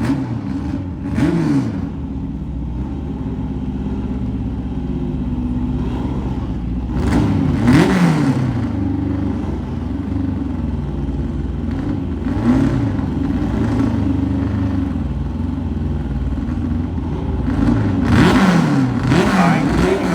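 Several car engines running, revved up and down again and again, with the strongest revs about a second in, around seven to eight seconds in, and near the end.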